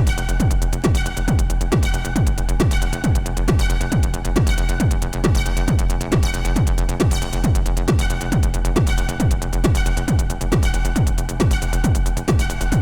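Techno or trance played in a DJ set: a steady four-on-the-floor kick drum, about two beats a second, each hit dropping in pitch, under sustained synth tones and ticking hi-hats.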